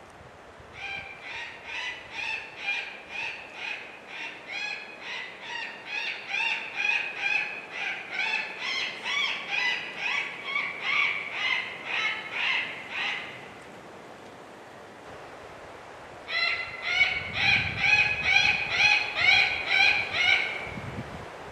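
Predator call sounding a bird distress sequence: loud, pitched squawks repeated about two a second for some twelve seconds, then a pause of about three seconds before the squawks start again. A low rumble sits under the second run.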